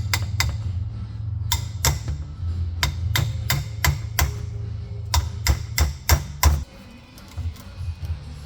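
Hammer strikes, about a dozen sharp blows in three quick runs, with the loudest near the end of the last run.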